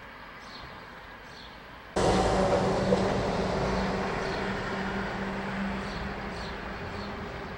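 Small birds chirping faintly. About two seconds in, a loud rushing noise with a steady low hum starts suddenly and slowly fades, drowning the birdsong.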